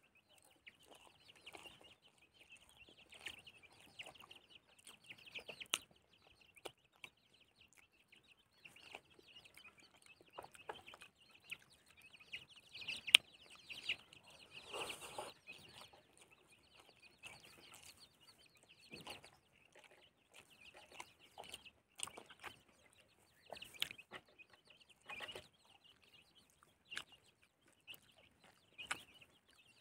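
Quiet eating sounds: scattered chewing and mouth clicks as rice and boiled fish are eaten by hand, the loudest click about 13 seconds in. Faint bird calls sound in the background.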